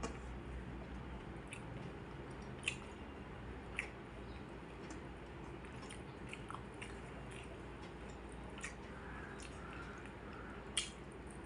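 A person chewing and eating food, with scattered small mouth clicks and smacks over a low steady hum.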